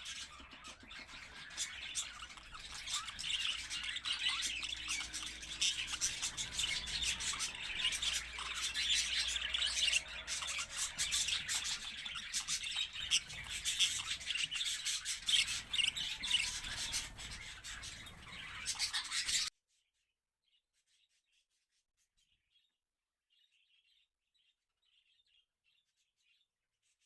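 A flock of small cage birds chirping and chattering busily together. The sound cuts off abruptly about two-thirds of the way through, leaving only a few faint chirps.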